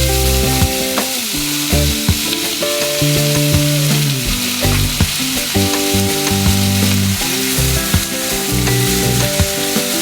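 Chopped banana flower sizzling as it is stir-fried in a pan for sukka, over background music of held, stepping notes.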